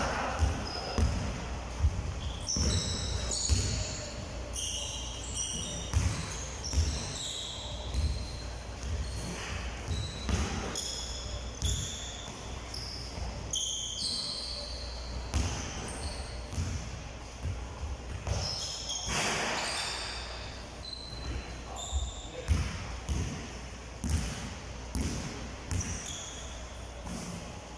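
Balls bouncing and shoes squeaking on an indoor court floor during a training session, with many short thumps and brief high squeaks throughout, and voices in the background.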